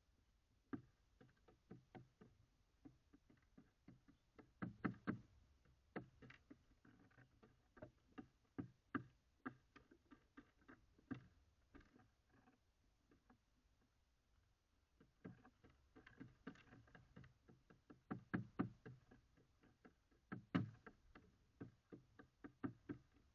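Birds pecking at a seed feeder: irregular taps and knocks of beaks striking the feeder and cracking seeds, close to the feeder's built-in camera microphone, coming in clusters with short pauses.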